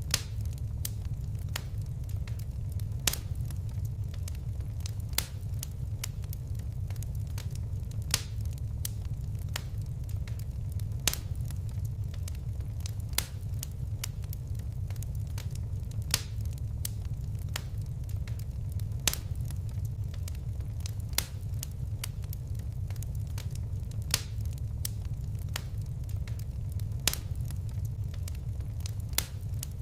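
Fireplace wood fire crackling, with sharp pops every two to three seconds and many smaller ticks over a steady low rumble of flames.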